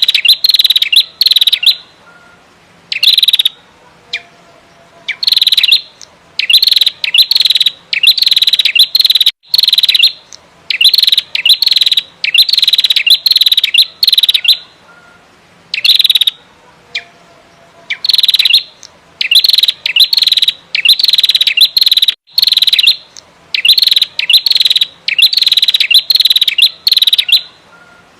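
Female prenjak merah calling loudly in rapid, harsh bursts of high chattering notes, each burst under a second long, repeated in quick clusters with brief pauses between.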